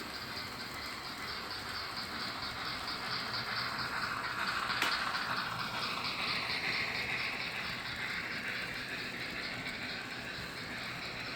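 Model train running along the track, a steady mechanical run with a fast regular ticking. It grows louder as it passes close about halfway, with one sharp click there, then eases off.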